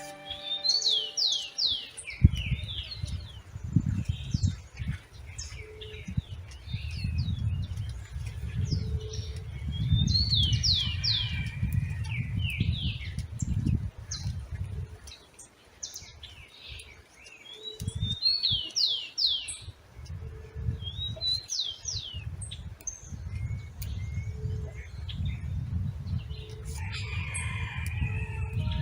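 A songbird singing, repeating short phrases of quick descending high notes every few seconds, over an uneven low rumble.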